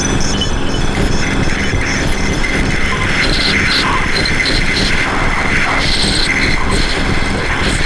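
Noise/drone music from an effects-pedal and looper rig: a steady, dense wash of noise with a held high tone and short repeating bleeps layered over it.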